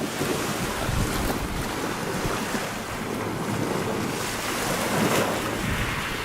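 Small sea waves washing up over small pebbles on the shore, a steady wash of surf that swells twice, about a second in and again about five seconds in.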